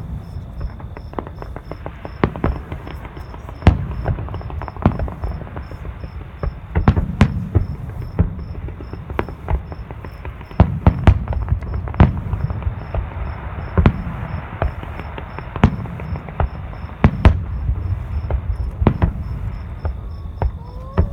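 Fireworks going off: many sharp bangs at uneven intervals over a low rumble. Crickets chirp steadily, with a high trill and an even pulse of about two chirps a second.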